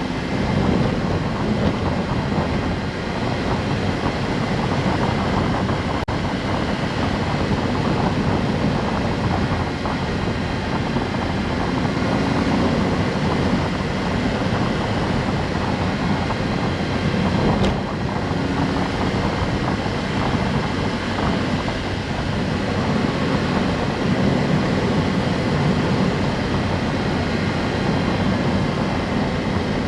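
Honda S660's turbocharged three-cylinder engine running under way, with tyre and road noise, its hum wavering slightly in pitch as the car drives on.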